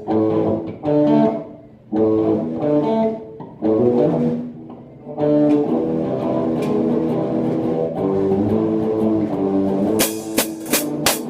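Guitar playing chords in three short phrases with brief gaps, then a longer sustained passage; sharp drum hits start to come in near the end.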